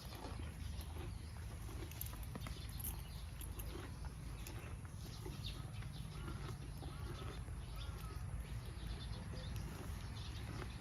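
A cow grazing pangola grass, tearing it off and chewing in a steady run of short crisp crunches.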